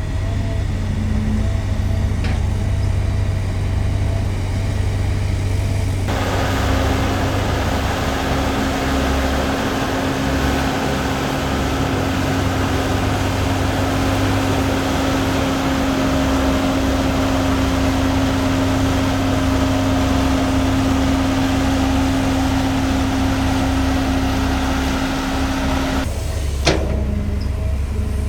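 Heavy diesel construction machinery running: a steady low engine drone throughout, joined about six seconds in by a louder hissing layer with a steady hum, which cuts off suddenly about two seconds before the end.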